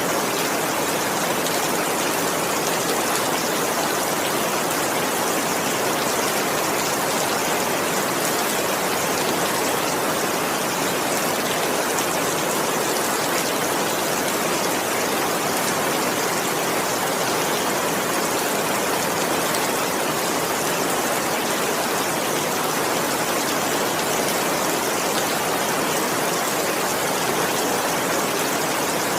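Heavy rain pouring steadily: a dense, even hiss with no single drops or thunder standing out.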